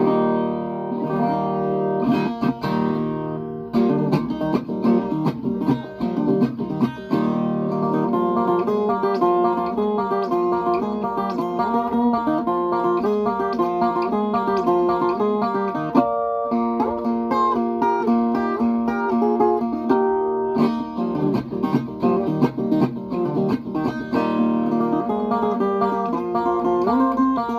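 Viola caipira, the Brazilian ten-string steel-strung guitar, strung with Strinberg VL10 strings, played solo: a quick opening strum, then plucked melodic runs over ringing chords, with a few brief breaks in the playing.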